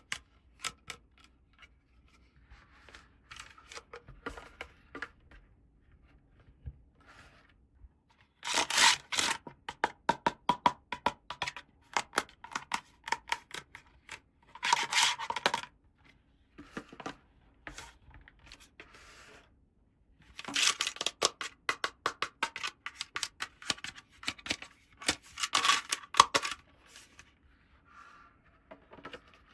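Hands handling small plastic toy pieces and their packaging: scattered light clicks and taps, with three spells of dense crinkling, about a third of the way in, around the middle, and for several seconds in the last third.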